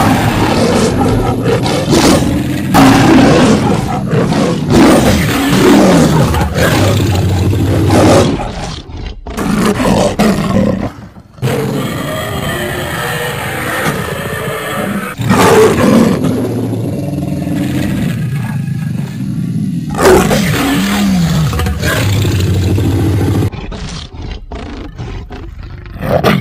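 Cartoon lion roaring and a cartoon girl screaming, edited together into a run of long, loud roars that break off and restart suddenly several times.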